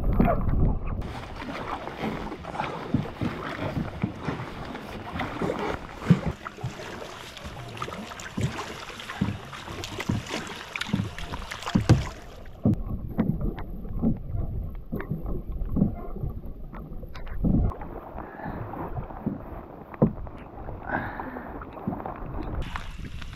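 Canoe being paddled across a lake: repeated paddle strokes splashing and knocking in the water.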